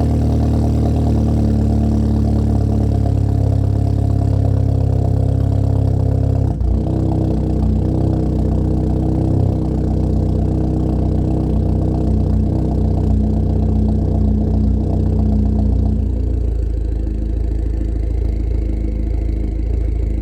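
BMW 116i (F20) engine idling through its exhaust after a cold start, a steady drone with a brief dip about six seconds in. About sixteen seconds in the idle drops to a lower, quieter note as the fast cold idle settles.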